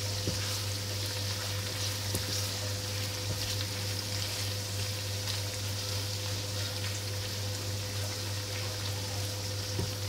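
Purple eggplant frying in hot oil: a steady sizzle, over a constant low hum.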